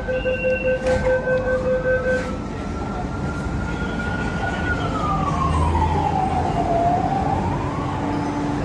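Train door warning beeping, two steady tones pulsing about four times a second, stops after about two seconds. Then a single wailing tone slowly rises, holds, falls, and begins to rise again near the end.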